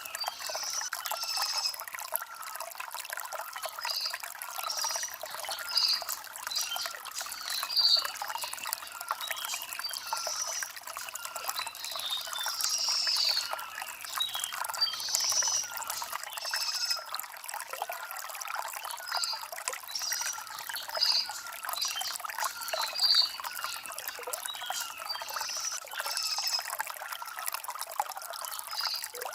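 Shallow stream trickling and gurgling over river stones, a steady busy patter of small splashes with no deep rush.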